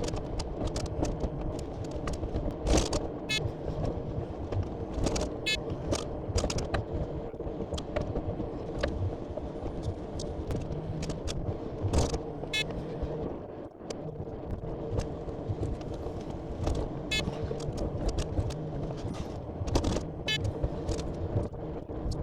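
Heavy truck's diesel engine running steadily, with frequent short knocks and rattles over it.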